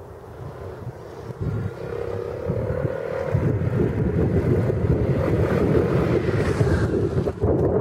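A trike running on a Yamaha Majesty C scooter engine, its sound swelling about two seconds in and then running loud and steady, as it pulls away or drives past.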